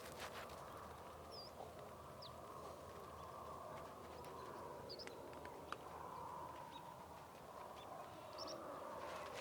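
Faint outdoor background noise with a few short, high bird chirps.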